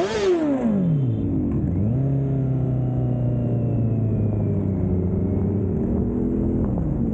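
Motorcycle engine revved sharply once, the pitch climbing fast and falling back over about a second, then running steadily with a slow rise in pitch that drops back near the end.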